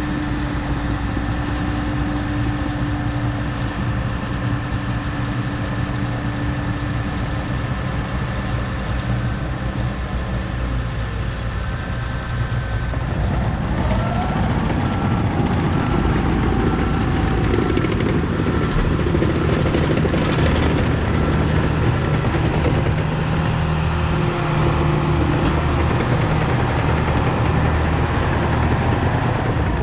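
Volvo A25G articulated haul truck's diesel engine running, heard from inside the cab. About halfway through it gets louder and busier as the engine takes on load. A faint regular beeping runs for several seconds just after that.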